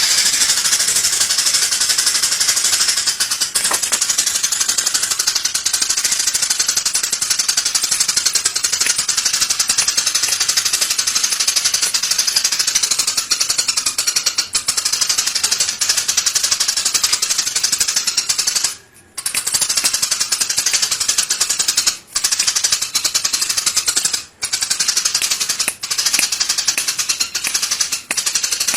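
Songbird singing a high, very fast trill of rapidly repeated notes, kept up almost without a break, with a brief pause about two-thirds of the way through and two short ones soon after.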